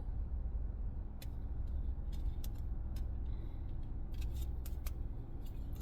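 Tarot cards being handled as the next card is drawn: a scattering of light clicks and snaps, thickest near the end, over a steady low rumble.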